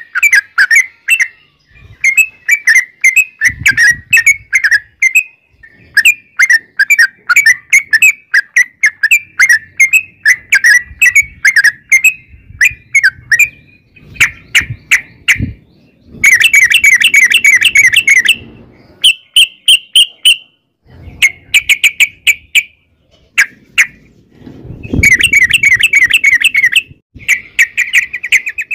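Yellow-vented bulbul (trucukan) singing a long, rapid run of bubbly chattering notes in phrases broken by brief pauses, with louder, harsher bursts in the second half.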